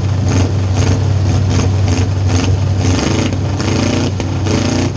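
Demolition derby car's V8 engine running loud, heard from inside the cab as a steady low drone. Its pitch rises in revs a few times in the second half.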